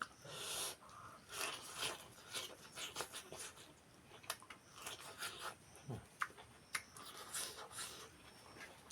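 A person eating fish curry: irregular chewing and smacking mouth sounds in short bursts, with a few sharp clicks.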